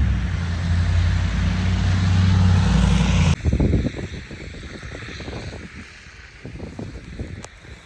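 A motor vehicle's engine running with a steady low hum and hiss, cutting off abruptly a little over three seconds in. After that come irregular gusts of wind buffeting the microphone.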